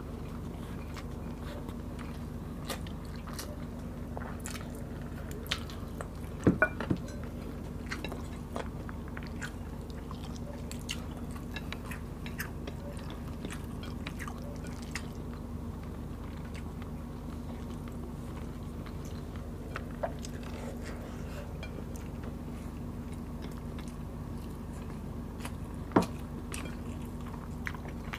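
Close-up eating sounds: chewing and small wet mouth clicks and smacks as chicken adobo and rice are eaten by hand. A few sharper clicks come about six and a half seconds in and again near the end, over a steady low hum.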